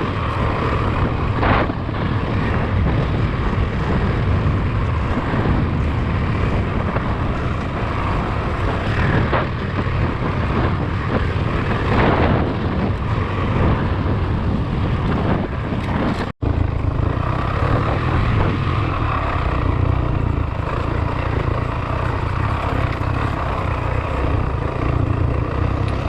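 Motorcycle running under way, with its engine and rushing wind noise on the microphone. The sound cuts out for an instant about two-thirds of the way through.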